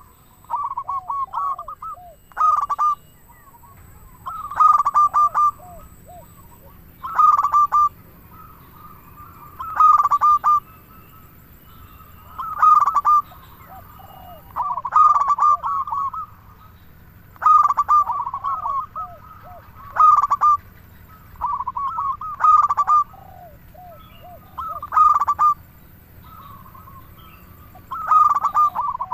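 Zebra dove (perkutut) singing steadily: repeated phrases of quick cooing notes, one phrase about every two and a half seconds, a dozen or so in a row.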